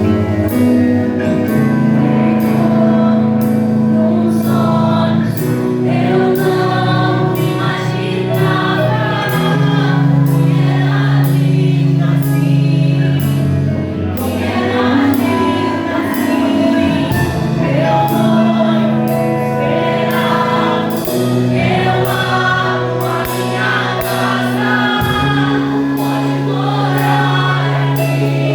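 Worship music: voices singing a praise song over sustained chords, with a regular light beat about twice a second.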